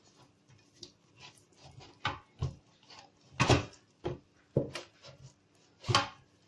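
Hands rubbing and slapping a raw whole chicken coated in dry flour: irregular soft rubbing strokes with sharper wet slaps, the loudest about halfway through and again near the end.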